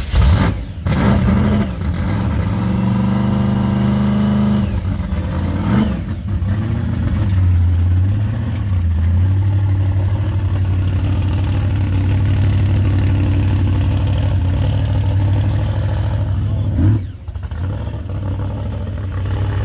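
Drag-race Oldsmobile 442 Cutlass V8 firing up and revving, then running at a loud, uneven idle with occasional throttle blips, one sharp rev near the end.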